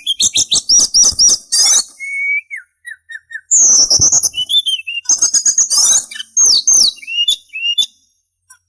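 Sulingan songbird singing: a fast, varied run of chirps and sliding whistles, with a slower string of lower whistled notes about two seconds in, stopping about a second before the end.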